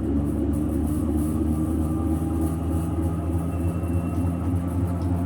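Motorized centrifugal honey extractor spinning eight frames with a steady motor hum. It has just reversed automatically to fling honey from the other face of the combs.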